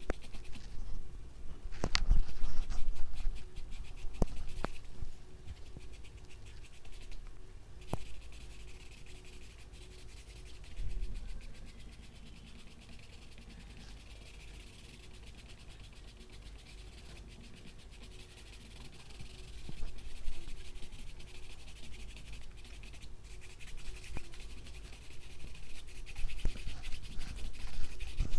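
Paintbrush scratching and rubbing on canvas in uneven strokes as white paint is dabbed on, with a few sharp clicks near the start.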